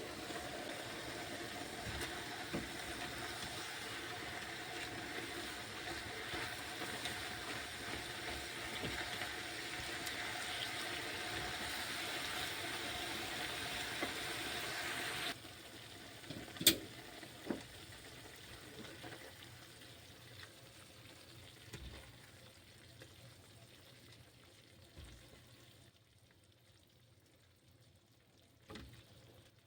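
A steady, water-like rushing hiss that cuts off abruptly about halfway through, followed by one sharp click and a few faint knocks.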